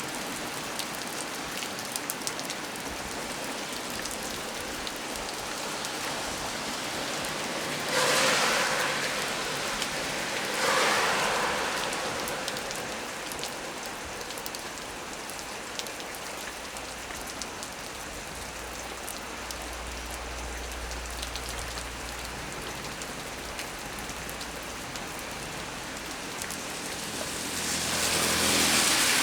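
Heavy rain falling on tree leaves, a steady dense hiss that surges louder for a few seconds about eight and eleven seconds in and again near the end. A faint low rumble sounds around the middle.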